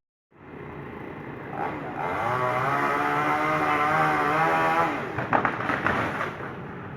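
Diesel engine of a Doosan Daewoo 180WV wheeled excavator revving up and holding high revs under hydraulic load, then dropping back. Just after, a quick run of sharp cracks and knocks follows.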